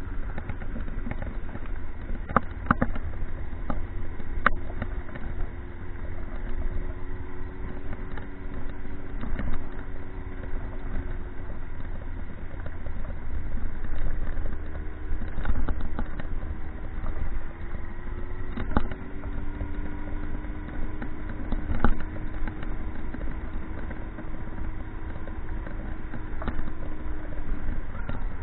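Motorcycle engine running at a steady cruising pace, its note drifting slowly up and down, over a heavy low rumble of wind noise.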